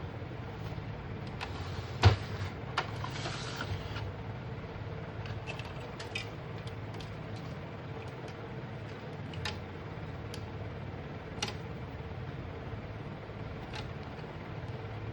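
Scattered light clicks and knocks, with one louder click about two seconds in and a brief rustle just after, over a steady low hum.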